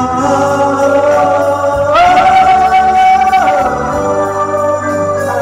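A Vietnamese song: a singer holds a long note over instrumental accompaniment. The note steps up in pitch about two seconds in and back down a second and a half later.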